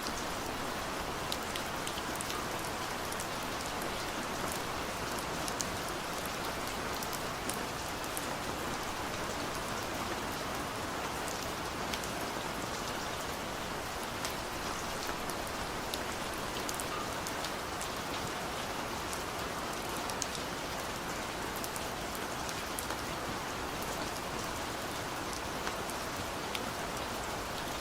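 Heavy rain pouring steadily, an even hiss of rainfall with many sharp ticks of individual drops hitting a surface.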